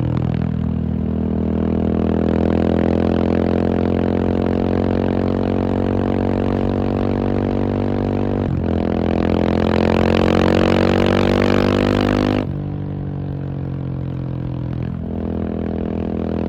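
KTM 690 SMC R's single-cylinder engine pulling under throttle, its pitch climbing steadily, with a quick break for a gear change about halfway through. The pitch climbs again until the throttle is shut near the end, when the sound drops lower and quieter, with one more short break shortly before the end.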